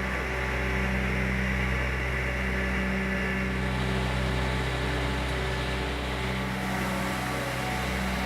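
Steady mechanical hum of an engine or motor running at a constant speed, with no change in pitch.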